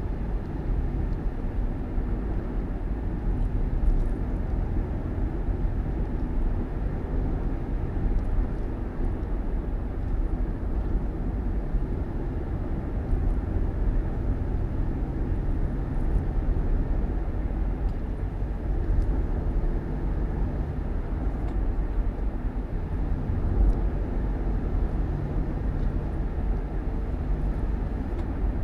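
Vehicle engine and road noise while driving: a steady low rumble with a faint engine hum that shifts slightly in pitch.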